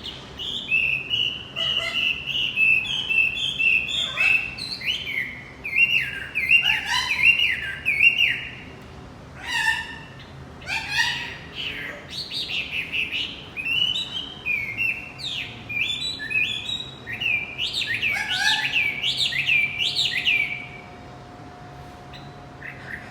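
Male wambi songbird singing a fast, varied song of chirps and quick rising and falling pitch sweeps: a lure song played to set a silent caged wambi singing. The song breaks off about 21 seconds in.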